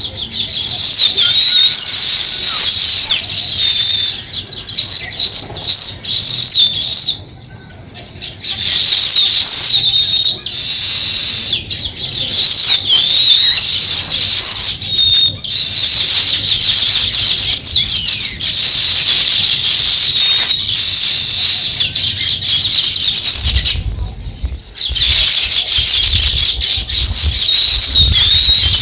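House sparrows chirping, a dense run of short chirps with a couple of brief lulls.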